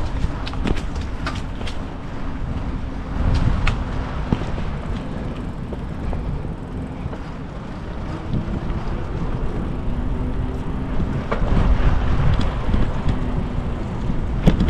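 Wind rushing over the microphone during a bicycle ride, a steady low rumble mixed with road and traffic noise, with a few light clicks and rattles.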